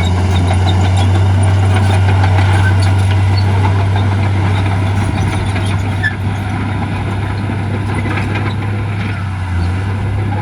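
Heavy diesel earthmoving machinery running steadily under load, a deep even engine drone.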